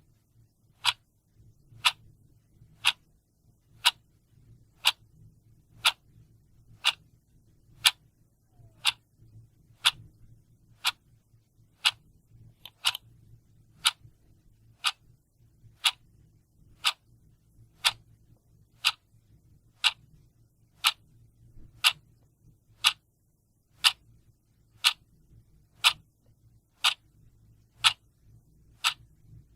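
Clock ticking steadily, one sharp even tick about every second.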